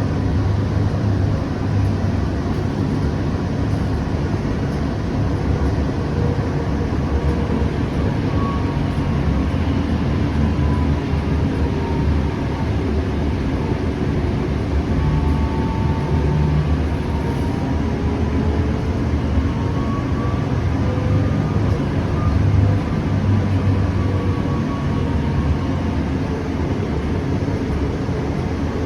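Siemens S700 light rail car running between stops, heard from inside the car: a steady rumble of wheels on track, with a faint whine that slowly rises and falls in pitch.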